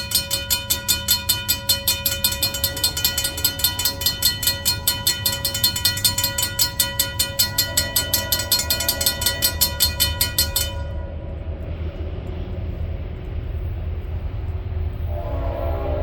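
Norfolk Southern freight train passing with a low locomotive rumble, under a bell ringing fast and evenly, about three strikes a second, that cuts off suddenly about two-thirds of the way through. Near the end a locomotive horn starts to sound.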